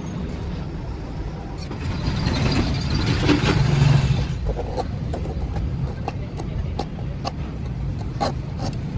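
A motor running with a steady low rumble that grows louder from about two to four seconds in, followed by a scattering of sharp knocks and taps.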